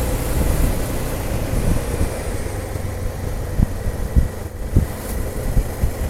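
Motorcycle engine running steadily as it rides along a mountain road, with a few short low thumps in the second half.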